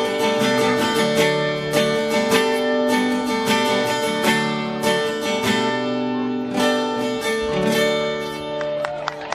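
Instrumental acoustic guitar music: chords strummed in a steady rhythm with no singing, getting quieter in the last second.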